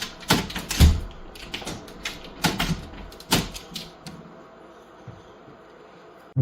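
A quick, irregular run of sharp clicks and knocks, thinning out after about four seconds into faint background noise.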